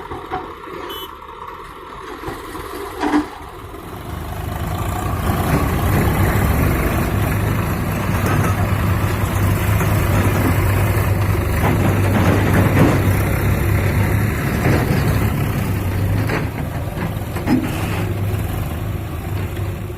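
Heavy diesel machine engine running, growing louder about four seconds in and then holding steady. A single knock about three seconds in.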